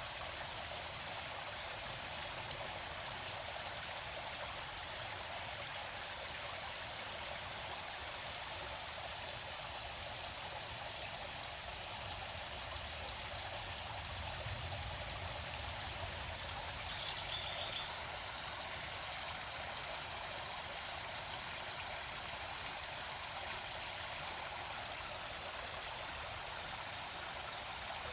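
Steady rushing and trickling of a forest stream, with a faint short high chirp a little past the middle.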